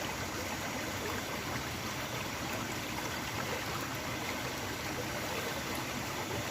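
Small river's water flowing, a steady rush with no breaks.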